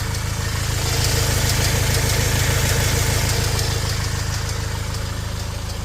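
Fiat Ducato 180 Multijet diesel engine idling steadily, with a fast, even tapping under its running. The owner cannot find the cause: the accessory belt, tensioner and alternator have already been replaced, and he has traced the tap to somewhere at the back of the engine.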